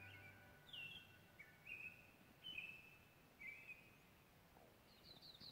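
Faint songbird singing: a series of short whistled phrases, each sliding down and then holding, at varying pitches with brief pauses between. Near the end comes a quick rising trill of high notes.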